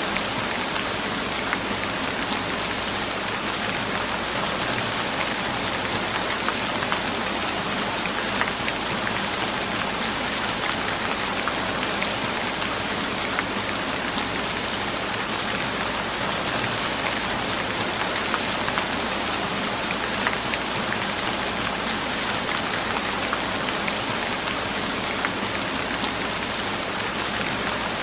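Steady rain falling on a surface, a constant hiss with many small drop ticks scattered through it.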